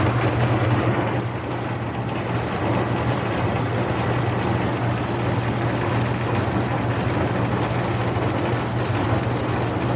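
Metal lathe running steadily with its spindle turning a 3-inch workpiece in a 5-inch chuck: a steady low hum under an even hiss of machine noise. The piece is wobbling in the chuck.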